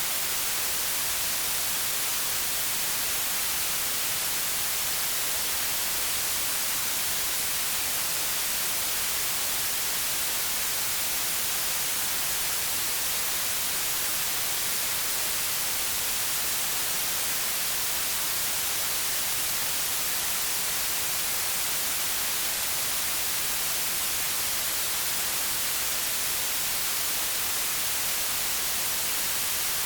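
White noise: a steady, even hiss that does not change, brightest in the high treble.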